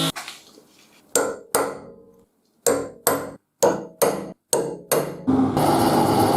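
Hammer blows on the steel of a railroad-track anvil: eight sharp strikes in four quick pairs, each ringing briefly. About five seconds in, a loud steady machine noise starts up.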